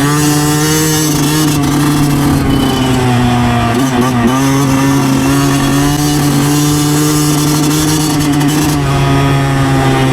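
2009 Yamaha YZ125 two-stroke single-cylinder engine running under way at fairly steady revs, its pitch dipping briefly about four seconds in as the throttle is eased, then steady again.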